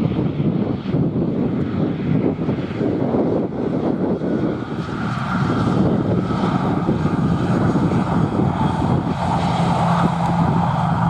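Aircraft engine noise growing louder over heavy wind buffeting on the microphone, with steady engine tones coming in about halfway through.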